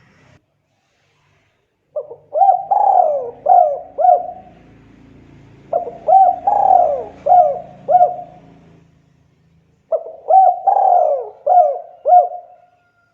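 Spotted dove (tekukur) cooing: three phrases, each of five or six short rising-and-falling coos, about four seconds apart.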